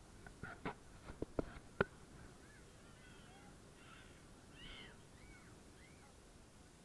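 A few sharp knocks in the first two seconds, then faint bird chirps: a string of short calls that rise and fall in pitch.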